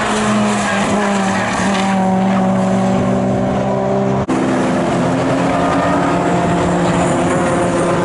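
Car engines running with a steady pitch that drifts a little, in two stretches separated by an abrupt cut about four seconds in.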